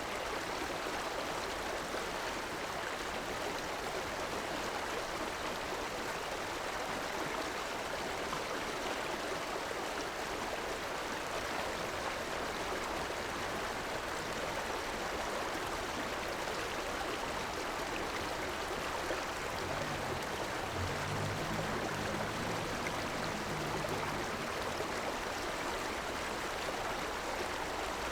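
River water rushing steadily. A faint low hum joins in about two-thirds of the way through and fades a few seconds later.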